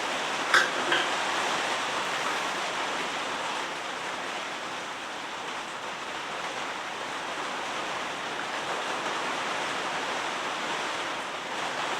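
Steady rushing of a swollen braided river running in flood, under heavy rain. A couple of light clicks about half a second in.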